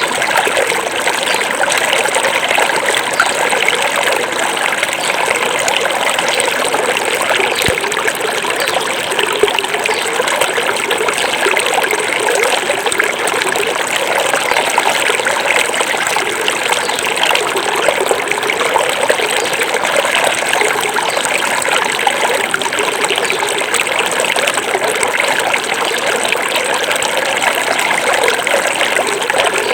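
Small forest river running over rocks: a steady, continuous babbling and trickling of flowing water.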